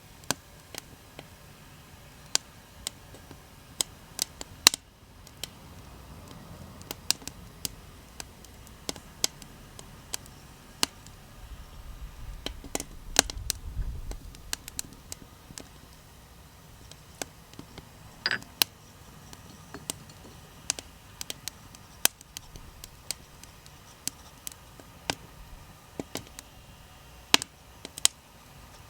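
Small wood fire crackling and popping, with irregular sharp cracks at uneven intervals and a few louder pops. A faint low rumble rises and fades near the middle.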